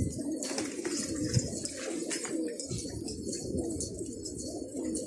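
Domestic pigeons cooing, several birds at once without a break.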